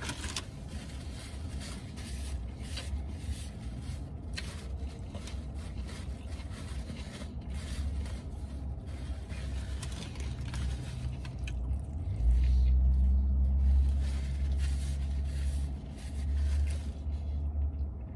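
A person chewing a mouthful of burger, with small wet clicks and napkin rustling. About twelve seconds in, a low vehicle rumble comes in, dips briefly and fades again about five seconds later.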